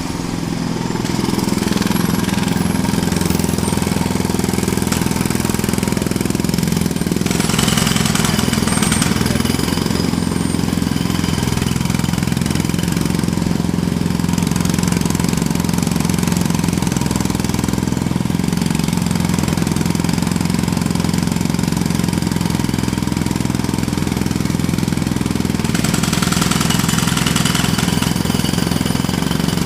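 Jackhammer hammering continuously, a loud, rapid, steady rattle that cuts in suddenly at the start.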